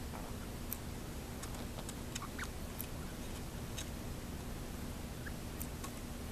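Lineolated parakeet's beak tapping and nibbling at a plush toy bird: scattered faint, irregular clicks and ticks over a steady low room hum.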